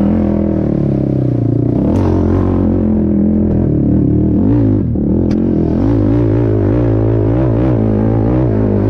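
Racing quad's engine running hard, its pitch rising and falling as the throttle is worked, with a brief dip about five seconds in.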